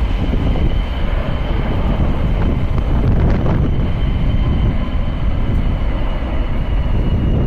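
Jet airliner taking off, its engines making a loud, steady, deep rumble with a faint high whine above it, and wind buffeting the microphone.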